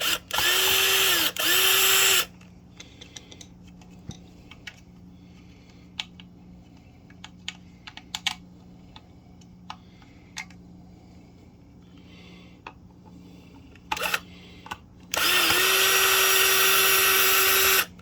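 Power drill/driver backing out the fasteners of a septic aerator pump's housing: two runs of the motor, one of about two seconds with a brief stop at the start and another of nearly three seconds near the end, each dipping in pitch as it spins up. Small clicks of handling parts and screws come in between.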